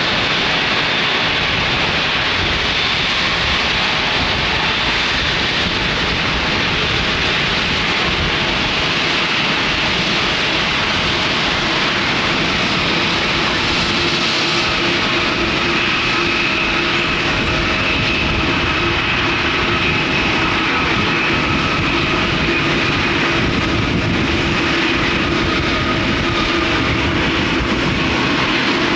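Jet airliner engines running close by: a loud, steady noise with several held whining tones that shift slightly in pitch about halfway through.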